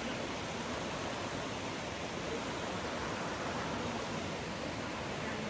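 River water rushing over rocks, a steady, even rush.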